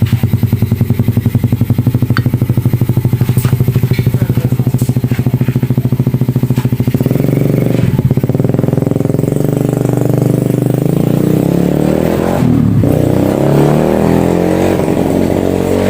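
A motorcycle engine running steadily with a fast, even pulse. It picks up slightly about seven seconds in and dips briefly near the end.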